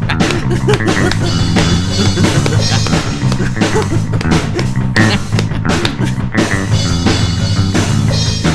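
Rock music with drum kit and electric guitar, a steady driving beat.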